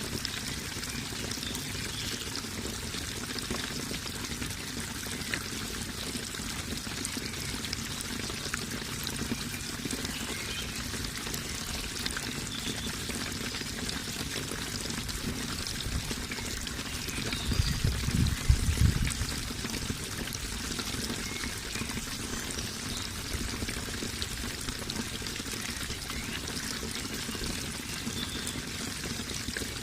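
Steady running, splashing water. A brief low rumble a little past the middle is the loudest moment.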